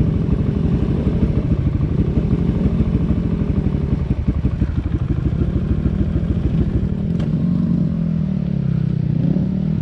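Dirt bike engine running and revving up and down. It chugs in rapid pulses around the middle, then holds a steadier, higher pitch near the end.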